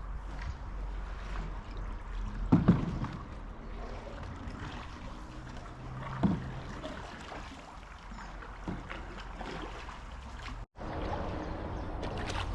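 Canoe being paddled on a river: paddle strokes and water sounds over a steady low rumble, with two louder knocks about two and a half and six seconds in.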